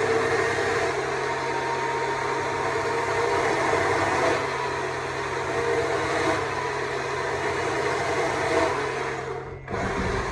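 Stihl MSA 200 C battery chainsaw running steadily while cutting wood, its electric motor and chain holding an even pitch. It cuts out for a moment near the end and starts again at once.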